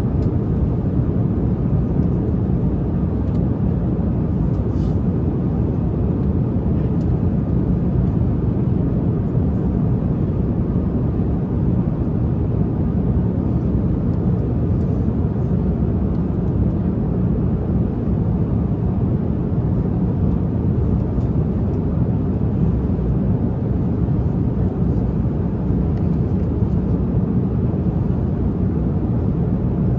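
Steady deep drone of a jet airliner's cabin in cruise flight, with a few faint ticks over it.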